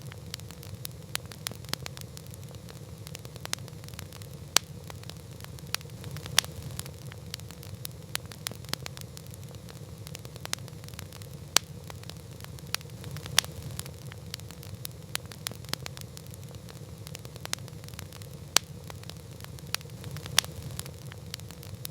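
Wood campfire crackling: irregular sharp pops and snaps, a few much louder than the rest, over a steady low rumble.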